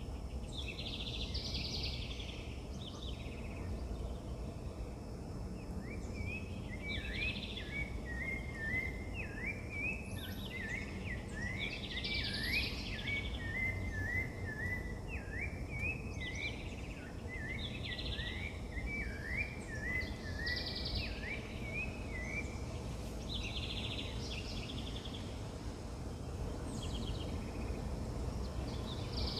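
Wild birds singing: short chirpy phrases repeat every few seconds, and from about six seconds in a fast run of short, quick notes goes on for around fifteen seconds. Under them runs a steady low rumble of outdoor background noise.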